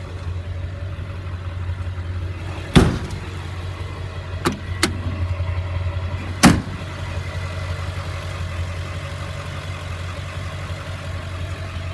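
2003 Ford F-550's 7.3-litre V8 turbo-diesel engine idling steadily. A few sharp knocks sound over it, the loudest about three seconds in and others near five and six and a half seconds.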